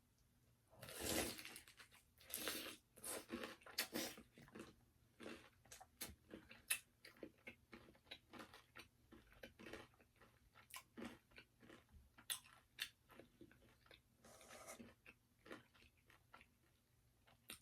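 Close-up biting and chewing of crispy fried chicken: the breading crunches, with bigger crunches in the first few seconds and again near the end, and many small irregular crackles between.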